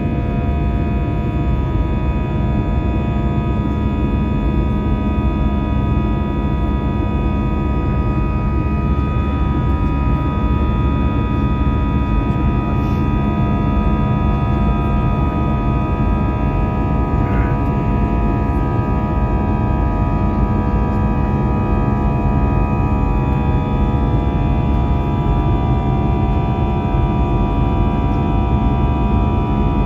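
Steady jet engine drone heard inside an airliner cabin during the climb after takeoff: a constant low rumble with a set of steady whining tones above it.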